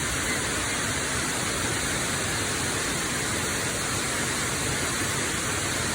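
A waterfall's falling water, a steady, unbroken rush of noise.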